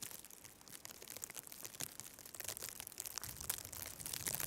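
Faint, irregular crunching and rustling of footsteps in snow while walking, with a low rumble coming in about three seconds in.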